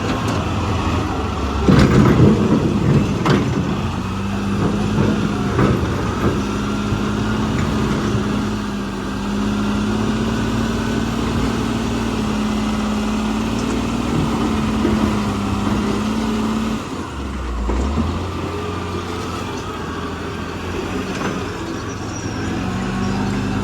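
Heavy diesel engine of earthmoving machinery running steadily, with a loud clattering crash about two seconds in and a few sharp knocks after it. The engine note changes near the end.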